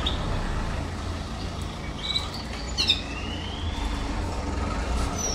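Canary giving a few short chirps and a sliding whistled note about two to three seconds in, then more whistled notes near the end, over a steady low rumble.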